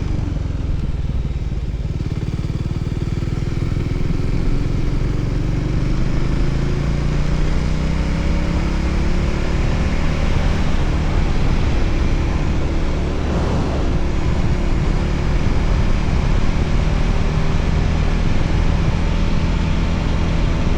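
Voge 300ACX motorcycle engine running while riding, its pitch rising and falling gently with speed, over steady wind and road noise.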